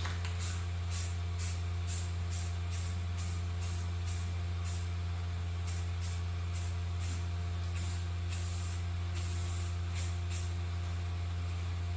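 Aerosol spray paint can hissing in short, repeated bursts, about two a second, as coats of paint go on. A steady low hum runs under it and is the loudest thing throughout.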